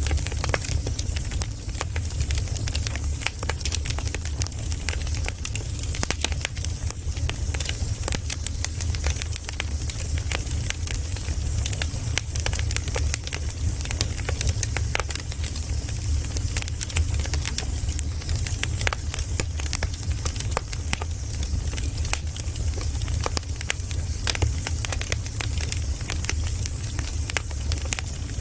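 Firewood burning, crackling steadily with frequent irregular sharp pops, over a steady low rumble.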